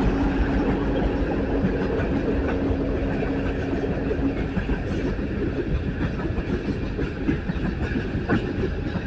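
A freight coal train passing close by. A steady low hum stops about halfway through, and the rolling cars keep up a rumble with a rapid clatter of wheels over the rail.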